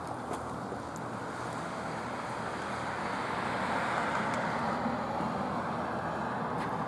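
A vehicle passing, its rolling noise swelling to a peak about four seconds in and easing off a little, over a steady low engine hum.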